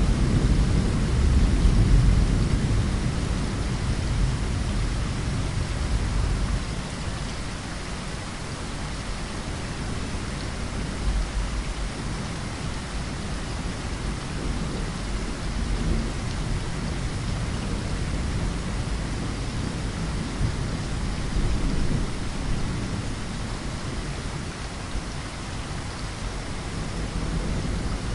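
Steady rain with a deep rumble of thunder, heaviest in the first few seconds, easing off, then building again near the end.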